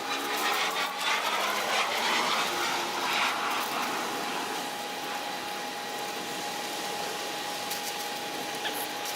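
An electric power tool's motor running steadily, a constant whine over hiss, with the pitch wavering in the first couple of seconds as the tool is worked.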